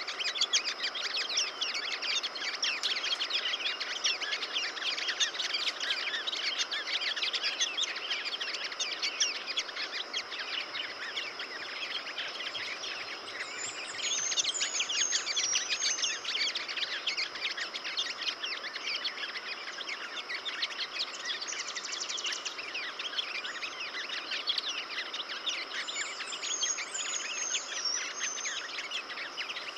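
Sunbirds chirping densely in a busy chorus of short, quick notes, with a high twittering song phrase twice, about 13 and 26 seconds in. A steady high tone runs underneath.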